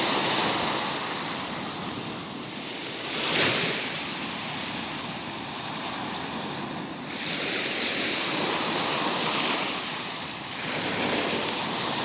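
Sea surf: waves breaking and washing up the shore in swells, the sharpest break about three and a half seconds in.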